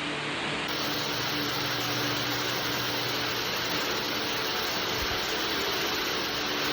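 Waterfall rushing: a steady, even noise of falling water with no change in loudness.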